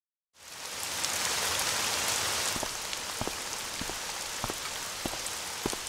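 Steady rain, an even hiss of falling rain with scattered louder single drops. It fades in just after the start.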